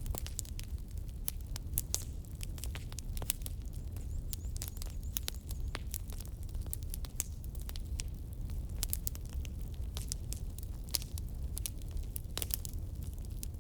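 Firewood burning: irregular sharp crackles and pops, several a second, over a steady low rumble.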